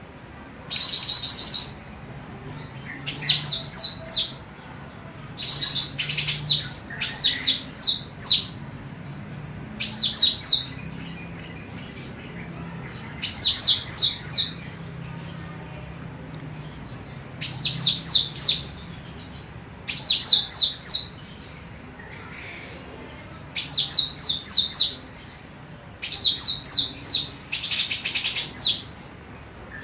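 Female cucak rante emas calling in short phrases of three to five quick, high, down-slurred chirps, repeated every two to three seconds, with a few harsher bursts among them, over a faint low hum.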